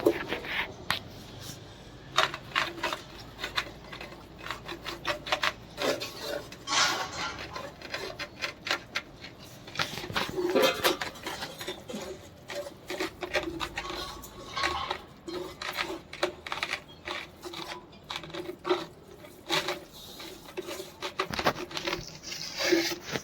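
Irregular clinks, taps and knocks of hard ceramic tiles being handled and struck against one another.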